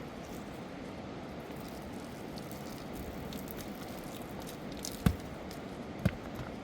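Steady rush of river water, with light scattered clicks and two sharp knocks about a second apart near the end.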